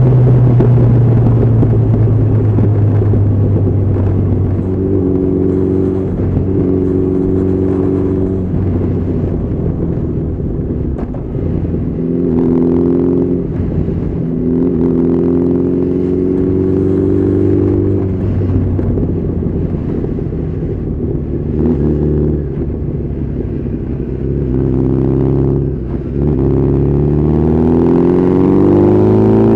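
Honda CB1300SF's inline-four engine running under way, its note holding steady for long stretches and changing now and then. Near the end it rises steadily in pitch as the bike accelerates.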